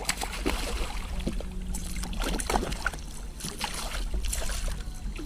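Scattered clicks, knocks and splashes around a fishing kayak as a hooked striped bass is fought and landed alongside.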